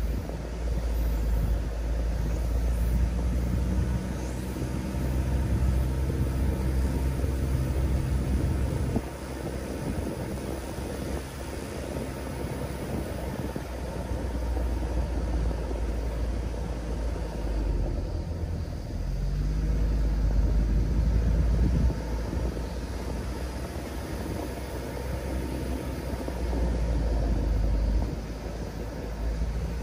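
Mitsubishi Delica D:5's clean diesel engine and drivetrain running as the vehicle drives a rough forest road, with a heavy low rumble. The engine note drops about nine seconds in and climbs again a little before twenty seconds.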